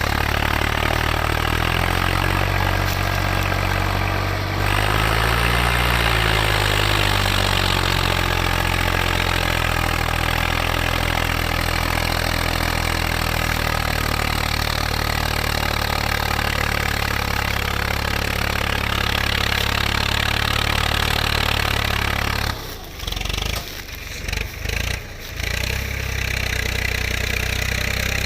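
Tractor engine running steadily, with a brief rise and fall in engine speed about five seconds in. Near the end the sound drops away in several short gaps for a few seconds.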